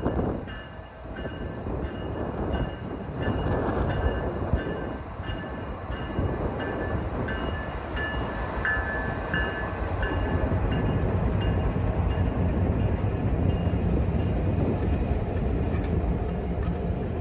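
Canadian National freight train rumbling past, with short ringing tones repeating about once or twice a second through most of the passage.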